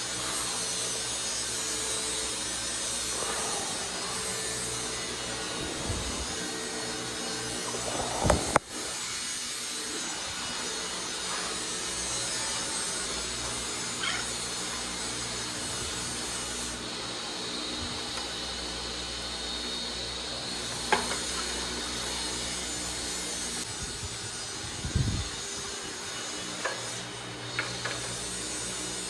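Steady workshop noise under a few sharp knocks and clinks of hand tools on metal, the loudest about a third of the way in and a few more near the end.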